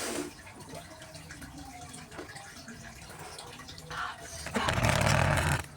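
A loud slurp of instant noodles lasting about a second near the end, after a shorter, fainter sound a moment before it.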